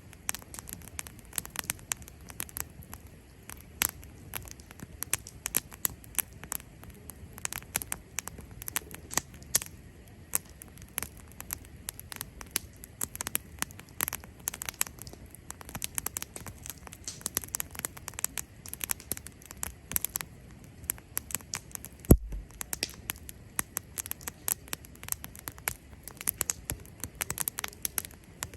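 Cherry-wood campfire crackling: a steady run of sharp, irregular pops and snaps, with one louder pop about two-thirds of the way through.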